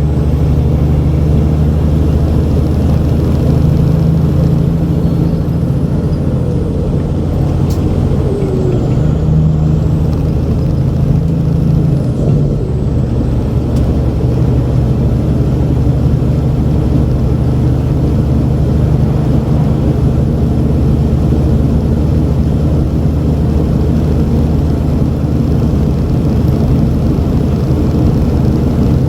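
Heavy diesel semi-truck engine running steadily, a constant low drone.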